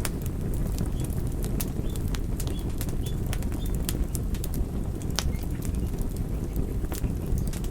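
Wood fire burning: a steady low rumble of flames with frequent, irregular sharp crackles and pops of the burning wood.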